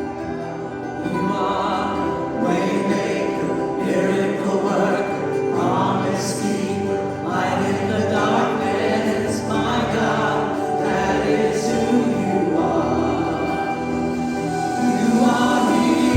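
Congregational worship singing: a group of voices singing together over sustained instrumental accompaniment.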